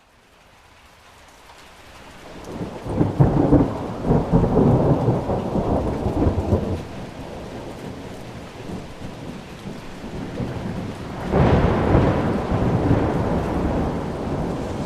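Thunderstorm: steady rain with rolling thunder. The sound fades in from silence. One long roll of thunder builds about three seconds in, and a second sharper clap comes about eleven seconds in and rumbles on.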